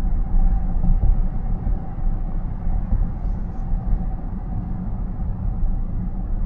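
Steady road and tyre rumble heard inside a moving car's cabin, with a faint steady whine above it.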